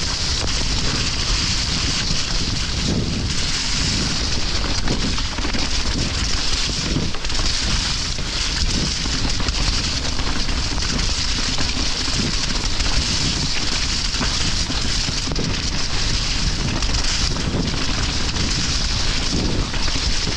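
Steady rushing noise of a mountain bike descending in heavy rain: wind buffeting the microphone, with a constant hiss of rain and tyres running through mud and water.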